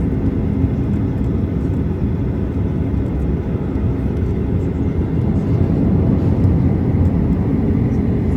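Steady low cabin rumble inside a Boeing 737-800 on the ground, from its CFM56-7B engines at idle and the airframe, with no distinct events.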